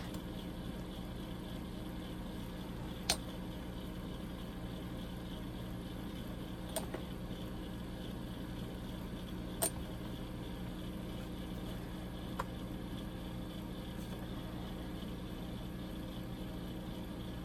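Steady electrical hum of room tone, with four small, sharp clicks spread a few seconds apart.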